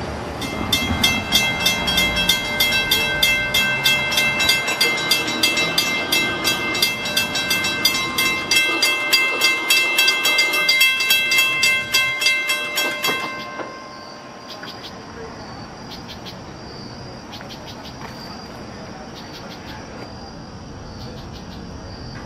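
Long Island Rail Road train passing with a bell ringing in rapid, evenly spaced strokes. The ringing and most of the train noise stop abruptly about 13 seconds in, leaving crickets chirping.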